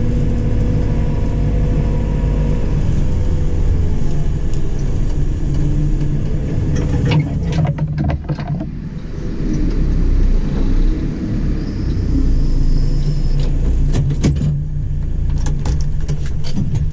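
JCB 4CX backhoe loader's four-cylinder diesel engine running steadily, its note dropping in the first few seconds. Scattered sharp clicks and knocks come about halfway through and again near the end.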